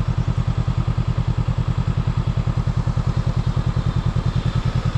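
Motorbike engine idling with a steady, even low pulse.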